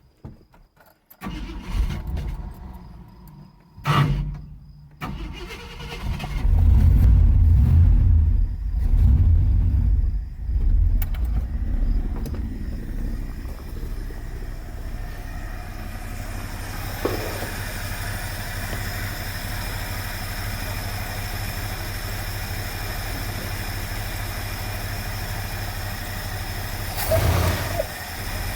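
Car engine being cranked after flooding and stalling: a few short attempts, then it catches about six seconds in, runs loud and uneven for several seconds, and settles into a steady idle.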